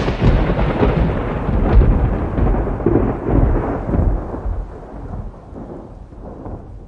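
Thunder: a sharp clap that runs straight into a deep rolling rumble, fading gradually over about six seconds.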